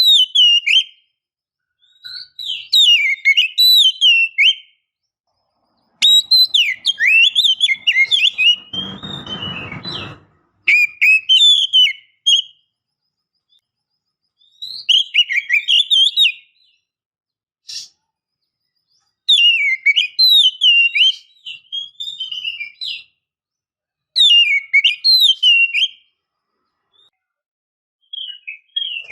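Oriental magpie-robin, billed as a female calling to males, giving bouts of quick whistled, sliding phrases of a couple of seconds each with short pauses between. It is a lure call meant to stir a male into song. A brief rustling noise comes in near the middle.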